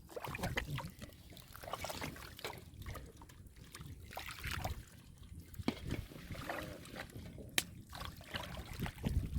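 Irregular splashing and sloshing of shallow muddy water, with scattered sharp knocks.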